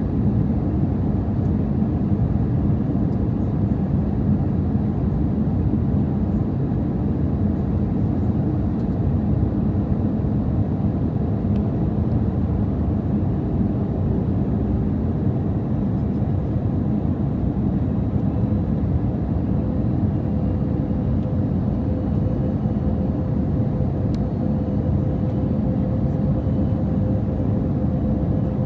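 Airbus A320 cabin noise during the approach to landing: a steady low rumble of jet engines and rushing air, with a faint steady hum joining in about twenty seconds in.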